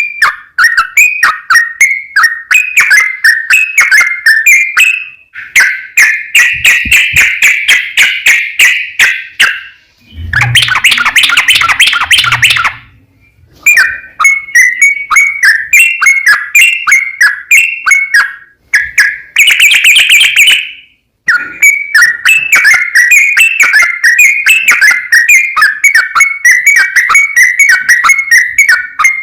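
Yellow-vented bulbul singing a long, rapid run of chirping, bubbling notes with a few short breaks. About ten seconds in there is a harsher, noisier stretch, and near twenty seconds a brighter, shriller phrase.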